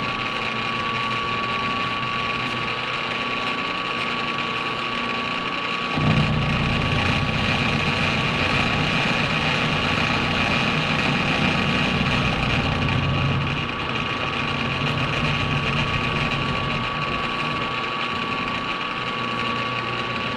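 A machine tool's motor running steadily with a whining tone. A deeper, rougher rumble joins about six seconds in and eases off around thirteen and a half seconds, as a metal cut takes material off the part.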